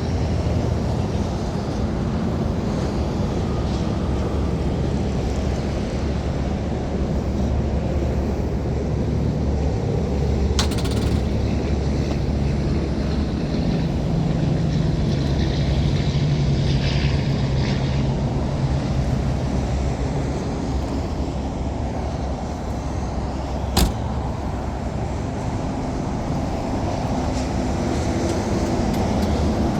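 A 1962 Chevrolet Corvette's V8 running steadily, its pitch rising a little for a few seconds near the middle. A single sharp click comes about three-quarters of the way through.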